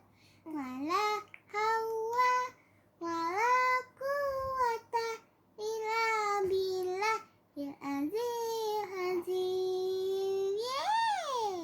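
A young girl singing a devotional Arabic chant (dhikr) solo, in drawn-out phrases with short breaths between them, ending on a long note that rises and falls.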